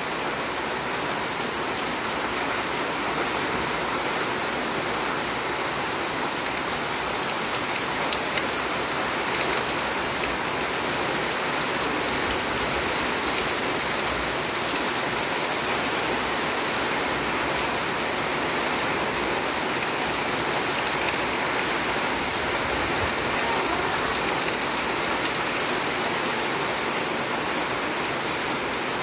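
Heavy rain falling steadily on a corrugated metal roof and a wet brick yard: an even, unbroken hiss.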